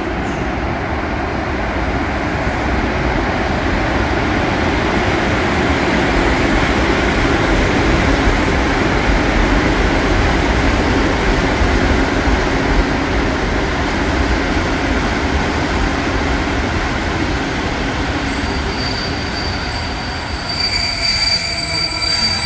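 Passenger train running through a station: a steady rumble of wheels and running gear. Near the end a high-pitched wheel squeal comes in.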